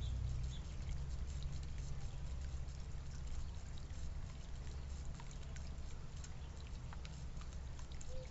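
Backyard birds feeding: scattered small clicks and ticks of pecking, with a few faint chirps near the start, over a steady low rumble.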